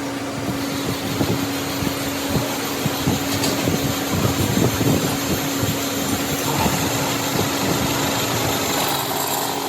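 Factory machinery running with a steady hum and irregular low knocking and clatter.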